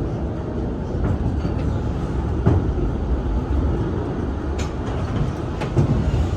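Disneyland Railroad passenger train rolling along the track: a steady low rumble with a few sharp knocks from the wheels and cars.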